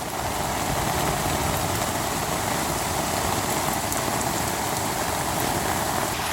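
Heavy rain from a storm beating on a tent, a steady dense hiss with faint scattered drop ticks.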